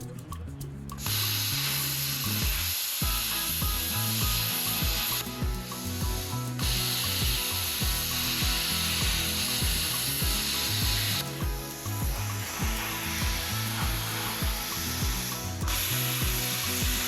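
Plasma cutter running: a loud crackling hiss of the arc and air blast that starts about a second in and stops and restarts twice as the cuts are made. Background music with a steady beat plays underneath.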